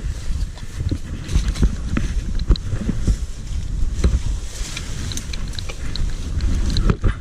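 Wind buffeting the microphone: a heavy, uneven low rumble, with scattered small clicks and knocks.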